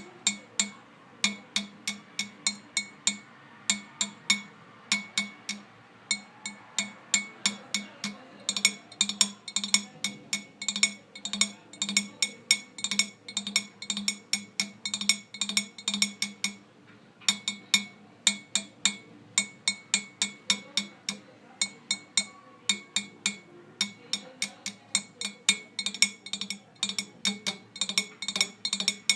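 Rhythmic percussion: sharp clinking taps with a ringing pitch, struck in a steady pattern that thickens in places.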